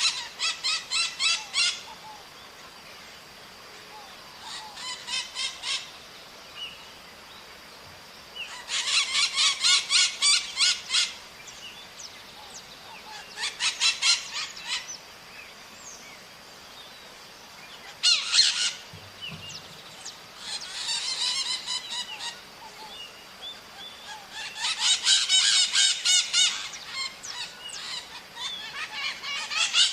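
Maritacas, small Brazilian parrots, calling in bursts of rapid harsh screeching notes. There are about eight bursts, each one to three seconds long and a few seconds apart, over a faint steady high-pitched tone.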